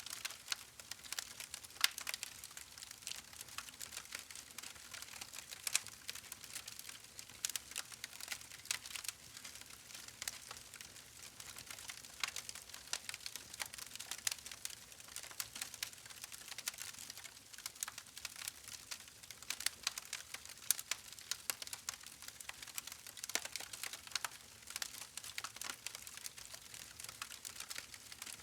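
Campfire crackling: a steady run of sharp, irregular pops and snaps from burning wood over a soft hiss.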